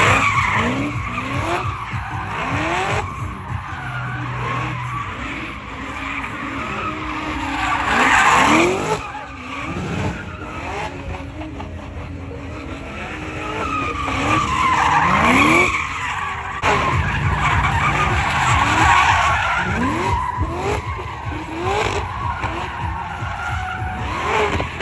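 Car or truck engines revving hard again and again, each rev a quick rising sweep, over loud tyre squeal that swells and fades several times.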